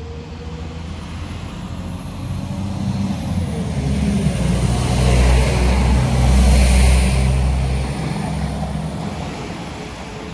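Northern class 195 diesel multiple unit passing along the platform: its engine hum builds as it approaches, it rushes past with wheel and air noise loudest about five to seven seconds in, then fades as it draws away.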